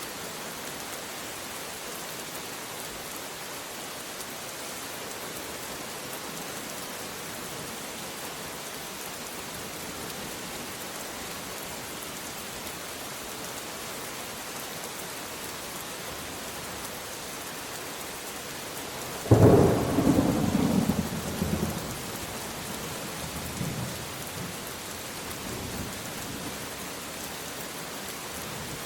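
Steady heavy rain falling, with a sharp clap of thunder about two-thirds of the way through that rolls on and fades over several seconds.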